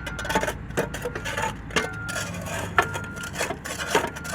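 Irregular knocks, clanks and scraping in the steel hopper of a belly dump trailer as packed junk is worked loose and cleared out.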